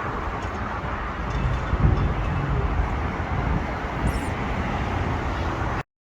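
Steady outdoor rumble of wind buffeting the microphone mixed with road traffic, cutting off suddenly to silence near the end.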